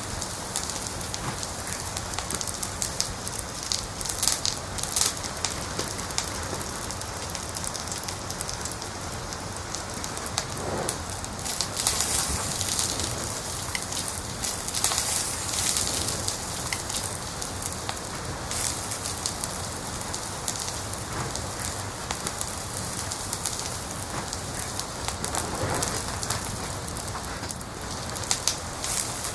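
Wood fire burning in a fireplace, crackling: a steady hiss with frequent sharp pops and snaps, busier for a few seconds around the middle.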